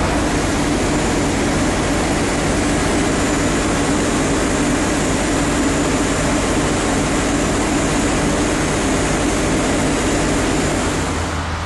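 A large engine running steadily and loudly with a constant drone, easing off slightly near the end.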